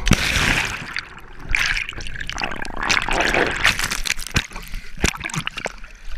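Water splashing and trickling in irregular gushes.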